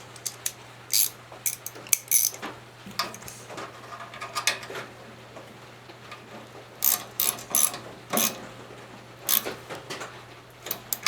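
Ratchet wrench clicking in short runs as bolts on the chipper's small engine are snugged up, with pauses between runs.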